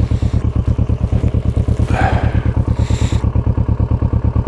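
Motorcycle engine running steadily at low speed with an even, rapid beat. About two seconds in there is a brief rougher rush of noise over it.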